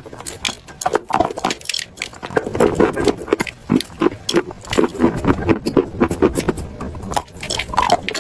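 Chalk being bitten and chewed close to the microphone: a rapid, uneven run of crisp crunches, several a second.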